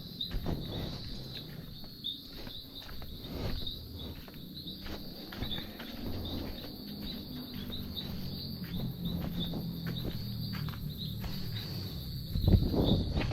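Crickets chirping steadily over a low rumble, with scattered clicks and a louder low thump near the end.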